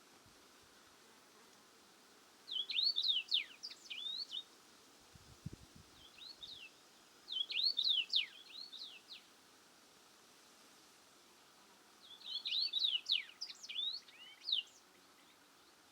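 A songbird singing three short phrases of quick, sweeping high chirps and whistles, a few seconds apart, over a faint steady hiss.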